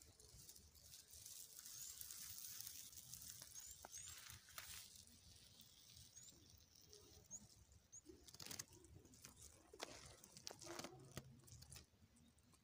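Near silence: faint outdoor ambience with a soft hiss, a few scattered short, very high chirps and some soft rustles or clicks.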